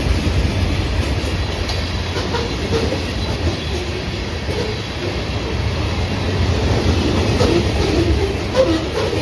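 Florida East Coast Railway freight cars rolling past: a steady low rumble of wheels on rail, with scattered clacks and brief faint wheel squeaks.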